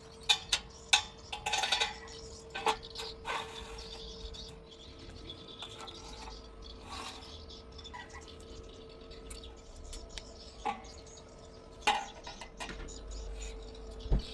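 Sharp metallic clinks and knocks at irregular intervals, most of them in the first couple of seconds, over a faint steady hum: metal pieces being handled and tapped together.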